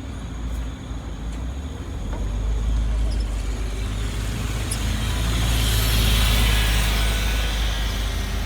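Bus engine and traffic noise, a steady low rumble that swells louder around the middle with a rushing hiss.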